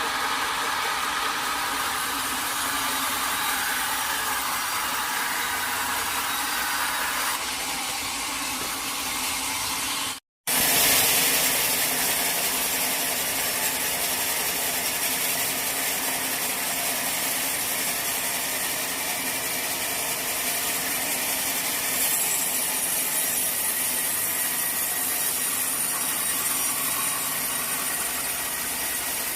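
Sawmill saw running steadily as it cuts through a teak log. It drops out for an instant about ten seconds in and comes back slightly louder and hissier.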